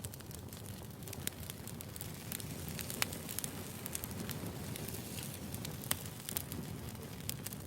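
Wood fire burning, with a steady low rustle and frequent sharp crackles and pops of the burning logs, the loudest pops about three seconds and six seconds in.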